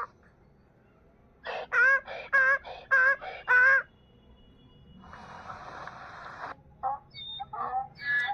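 Donkey braying: a run of about six loud, wavering calls in quick succession, followed by a quieter rasping breath.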